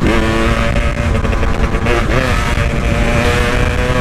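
Two-stroke motorcycle engine, a Kawasaki Ninja unit, running under way in traffic at a steady pitch. The pitch dips and climbs again briefly about two seconds in.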